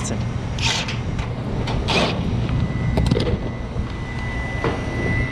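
Refrigeration machinery running with a steady low hum and a faint high whine, over several short clatters and rustles of parts and tools being handled.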